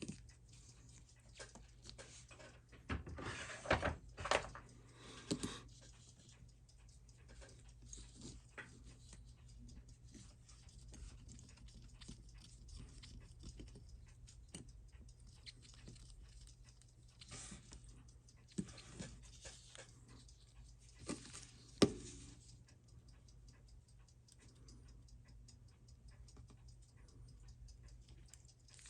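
Small, intermittent clicks, taps and rustles of watch parts and hand tools being handled on a watchmaker's bench during disassembly of the case. A cluster of handling noises comes a few seconds in, and a single sharper click comes a little past the middle, over a steady low hum.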